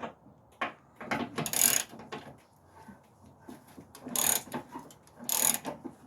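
Hand ratchet wrench clicking in several short strokes with pauses between, working loose a tight, unoiled transmission-mount bolt.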